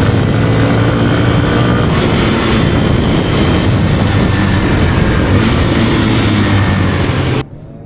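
Kawasaki KLX150E dirt bike's single-cylinder engine running steadily under way, buried in loud wind rush on the microphone. It cuts off suddenly near the end to faint music.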